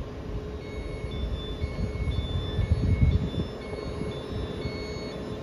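Hull Trains Class 802 bi-mode train with a steady hum and low rumble that swells briefly about halfway through. Faint short beeps alternate between a higher and a lower pitch, about two a second.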